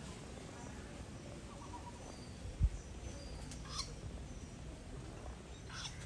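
Woodpeckers calling with a few short, sharp chirps, a little past halfway and again near the end, over a steady background hiss. A single low thump comes shortly before halfway.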